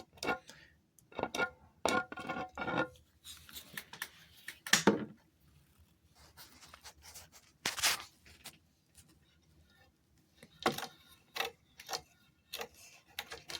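Irregular handling noises from working on metal sump pump parts: clinks, knocks and rubbing, with quiet gaps between them.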